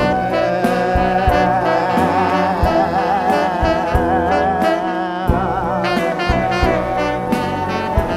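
Live band music: saxophone and brass lines over regular drum hits, with a held note wavering in pitch through the middle.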